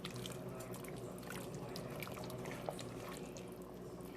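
Faint bubbling and small pops of chicken noodle soup simmering in a pot, over a low steady hum.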